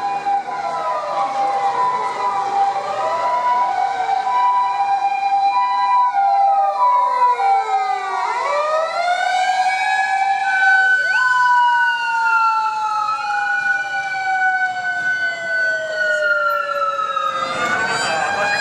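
Several emergency vehicle sirens sounding at once, overlapping wails rising and falling in pitch across each other. In the second half one long siren tone slowly sinks in pitch, as a vehicle passing by would.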